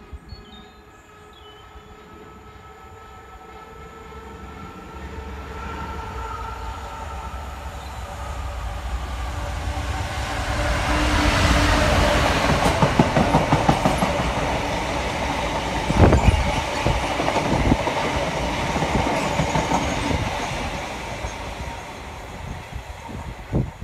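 EWS Class 66 diesel locomotive hauling a freight train past at close range. Its engine grows steadily louder as it approaches and is loudest as it goes by, then the wagons clatter over the rail joints with rapid clicks and knocks before the sound fades as the train draws away.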